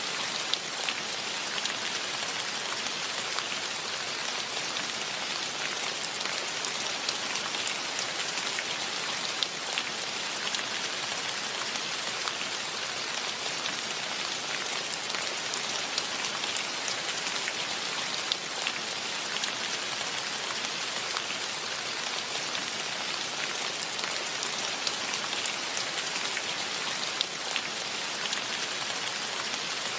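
Steady rain falling, an even hiss with individual drops pattering and ticking close by.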